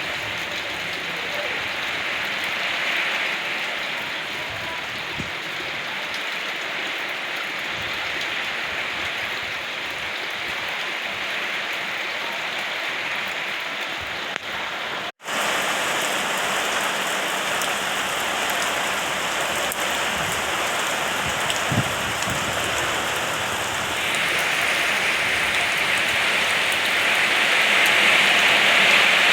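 Steady heavy rain falling, an even hiss of drops. About halfway through it cuts out for a split second, then comes back a little louder, and it swells louder again in the last few seconds.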